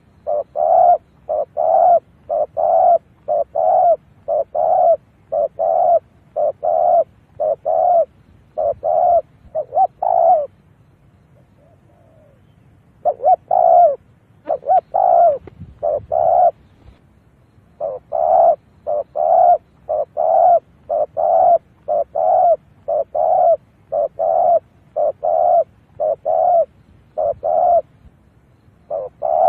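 Spotted dove cooing in a fast run of short, evenly repeated notes, about two a second, with one pause of a couple of seconds about a third of the way through. It is a decoy dove's call, played to lure wild spotted doves to a trap.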